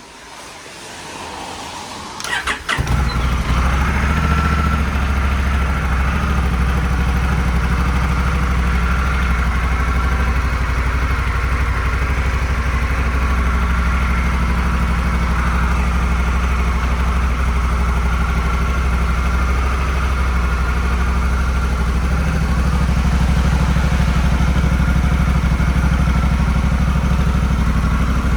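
Honda CRF1100L Africa Twin's parallel-twin engine being started on its stock exhaust: a short rising starter sound, then it catches about three seconds in and settles into a steady idle.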